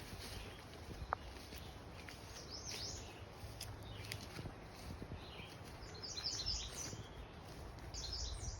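Woodland songbirds singing: short phrases of rapid, high notes that come back every few seconds, over a steady low rumble of breeze.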